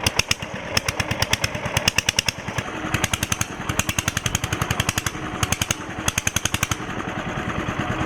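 Small engine running with rapid, sharp pulses, about a dozen a second, coming and going in uneven bursts over a steady background of wind and surf.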